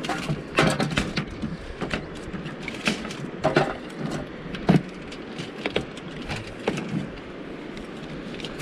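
Scattered clicks and knocks of eating, utensils against plates and dishes, about eight in all with the sharpest a little before five seconds in, over a steady rushing background noise.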